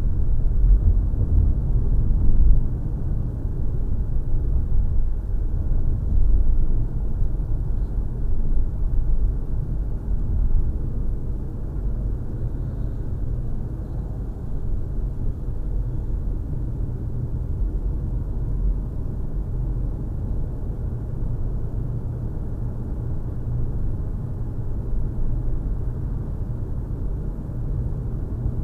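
Low, steady engine rumble from vehicle or aircraft noise. It is loudest in the first few seconds, then settles to an even level.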